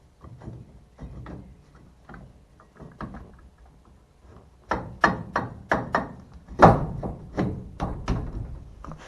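Light, irregular taps and clicks, then from about halfway a run of louder knocks, roughly two to three a second, the loudest a little past two-thirds of the way through.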